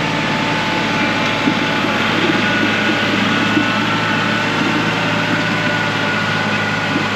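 Kioti NS6010 compact tractor's diesel engine running steadily while pulling a heavy chisel-disc harrow, with a thin steady whine over the engine drone.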